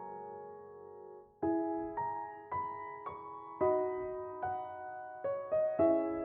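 Soft solo piano background music: a chord dies away over the first second and a half, then new notes are struck about every half second.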